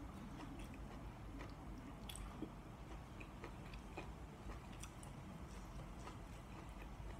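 A person chewing food close to the microphone, with faint scattered smacks and clicks from the mouth and fingers.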